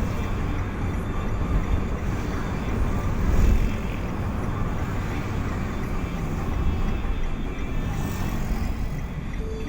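Motor vehicle on the move: steady engine and road noise, heaviest in the low end, with a brief louder surge about three and a half seconds in.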